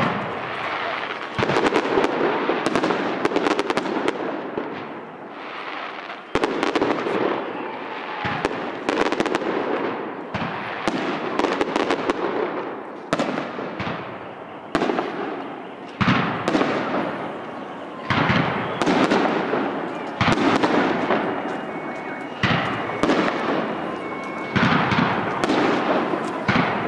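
Fireworks display: aerial shells bursting one after another, a loud bang every second or so, each trailing off into a wash of crackle. The bursts come thicker and faster in the second half.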